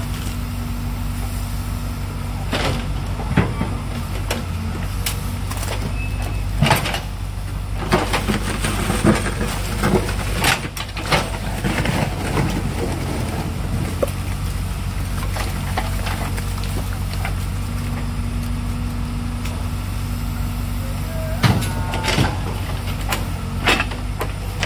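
Backhoe loader's diesel engine running steadily under load, with repeated knocks and clatter as its bucket scoops and dumps rubbish, heaviest through the middle.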